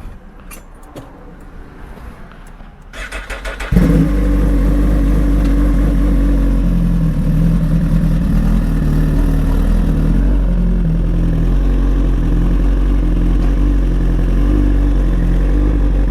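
A few light clicks, then the Suzuki GSX-R1000R's starter cranks briefly and its inline-four fires about four seconds in. It then idles steadily and loud through a Brocks Alien Head 2 full exhaust system.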